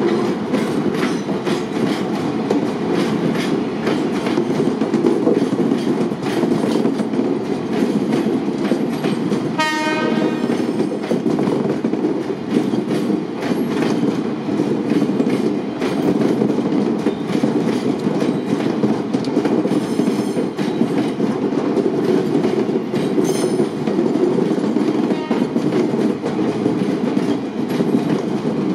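Loaded limestone hopper wagons of a freight train rolling past close by: a steady rumble of steel wheels on rail with rhythmic clicks over the rail joints. A short high-pitched tone sounds about ten seconds in, and faint high squeaks come later.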